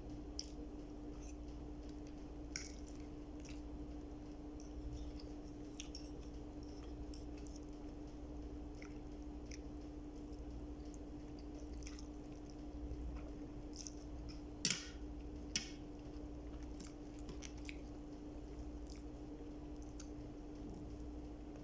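Close-up mukbang eating sounds: chewing with small wet, sticky clicks and smacks, over a steady low hum. Two sharper clicks come a little past the middle.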